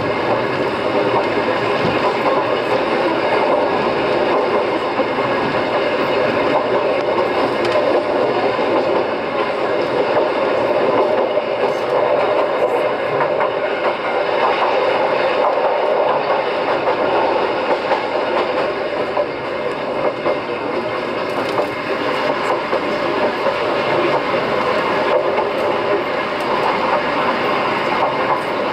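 Kishigawa Line electric train running along the track: the steady running noise of its wheels on the rails and its motors.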